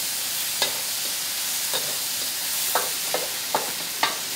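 Sliced sour eggplant (terung asam) sizzling in hot oil in a wok with a steady hiss, while a spatula scrapes against the wok about six times as it is stirred.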